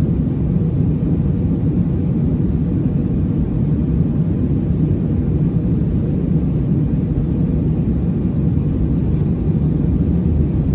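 Steady low rumble inside the cabin of an Airbus A321neo in descent: engine and airflow noise.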